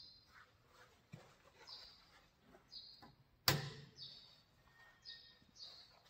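Faint chirping of small birds: short high chirps every second or so. About three and a half seconds in there is a single sharp click.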